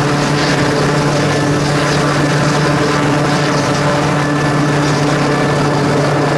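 Rescue helicopter hovering low overhead during a winch hoist, its rotor and turbine running loud and steady with a strong low hum.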